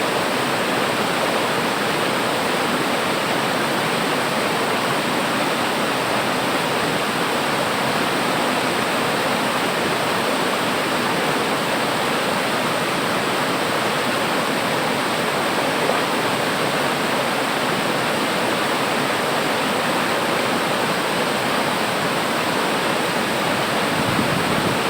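Waterfall: water falling and splashing onto rocks and a pool, a steady, even rush.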